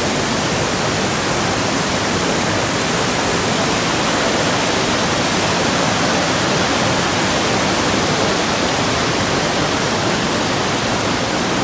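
Water rushing steadily through a fish ladder, a loud, even roar of white water.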